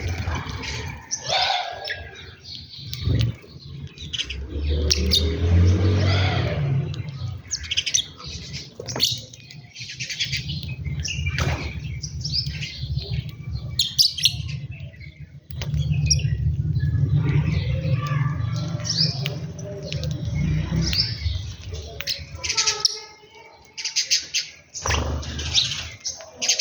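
Many small birds chirping and tweeting in quick, overlapping calls, over a low rumble that comes and goes in long stretches.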